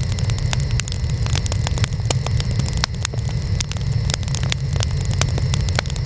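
Burning wood fire crackling: sharp irregular pops and snaps, several a second, over a steady low rumble of the flames.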